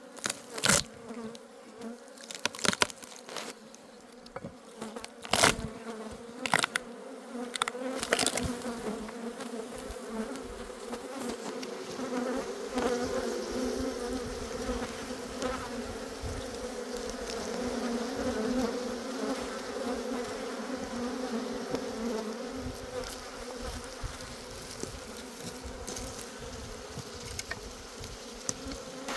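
A honeybee colony buzzing, a steady massed drone that grows louder after about eight seconds. A few sharp knocks come in the first eight seconds.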